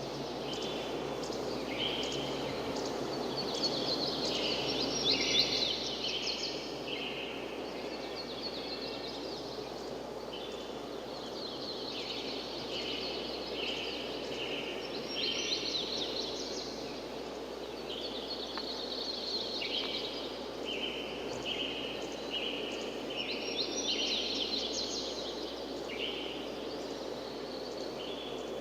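Several birds chirping and calling in quick repeated notes, on and off throughout, over a steady rushing background noise.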